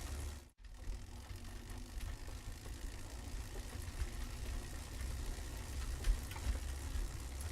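Steady low engine rumble of a road vehicle, with faint scattered ticks, cut by a brief dropout about half a second in.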